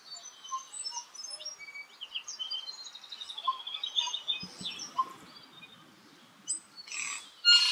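Forest birdsong, mainly tui: a run of short whistled notes, chirps and gliding phrases, with a louder harsh, wheezy burst near the end.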